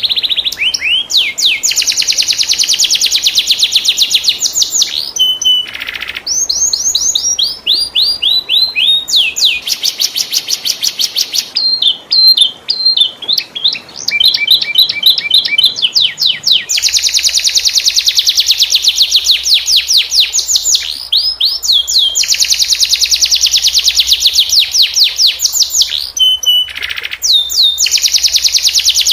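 Domestic canary singing a long, varied song of fast rolling trills, rapid repeated high notes strung into long phrases with short breaks between them.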